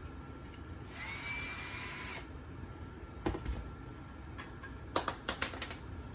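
A power drill runs once for about a second, with a brief rise in pitch as it spins up, then stops. This is followed by one click and then a quick run of sharp clicks and clinks, like small screws or hardware being handled.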